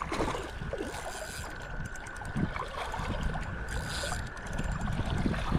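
Creek water flowing and splashing, with low rumble and handling noise on the microphone and a thin steady high tone underneath.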